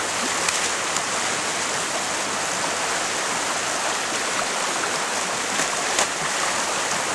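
Steady rushing of flowing water, with a couple of faint clicks.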